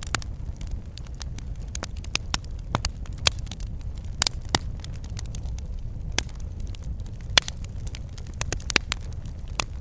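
Wood fire in a fireplace crackling: a steady low rumble of burning with sharp, irregular snaps about once or twice a second, the loudest a little past seven seconds in.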